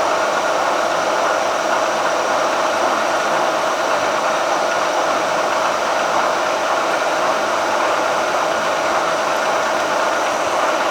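Tree vertical milling machine running steadily as it drills a hole in a hardened crankshaft counterweight for Mallory heavy metal: an even, continuous machine whine with a steady tone.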